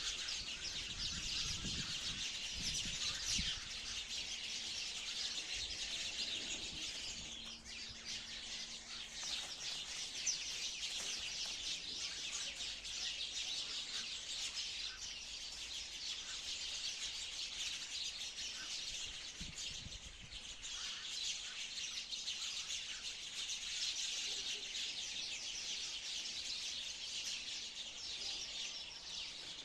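A flock of sparrows chirping, many short chirps overlapping into a steady, dense chatter.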